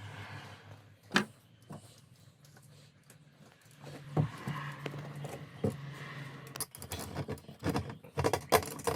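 Sharp clicks and light metallic clinks from hand work disconnecting the fuel pump's fittings on an Audi A4 B6: a few separate clicks, then a quick run of clicks near the end.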